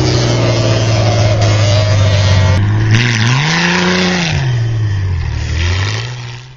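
A motor vehicle engine running steadily, revved up once and back down about three seconds in.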